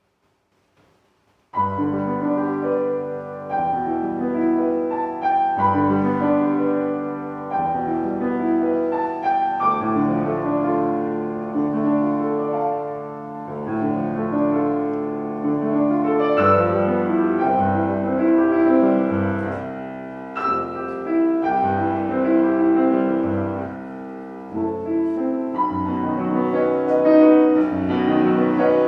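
Piano playing classical music, starting about a second and a half in after near silence, with repeated chords and a moving melody over them.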